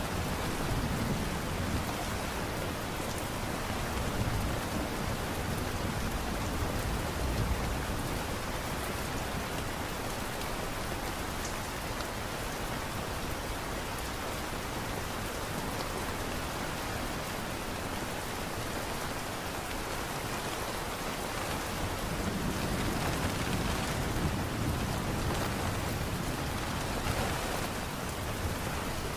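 Steady light rain, an even hiss of falling drops. A low rumble swells in the first few seconds and again near the end.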